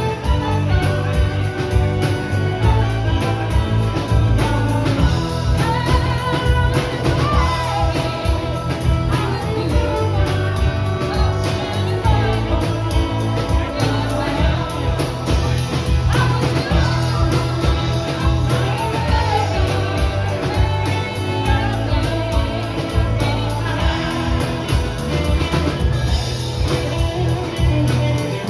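A rock band playing with a singer and electric guitar over a steady bass line.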